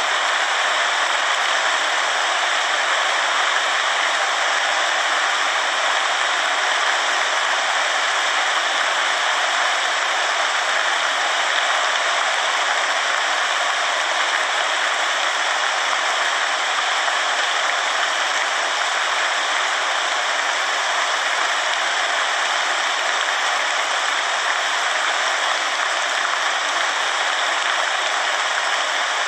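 Steady rainfall, an even hiss with no single drops or gusts standing out.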